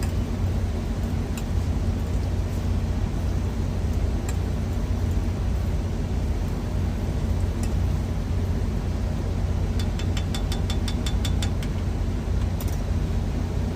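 Steady low rumble of a semi truck's idling diesel engine heard inside the cab. About ten seconds in, a quick run of about a dozen even ticks lasts a second or so.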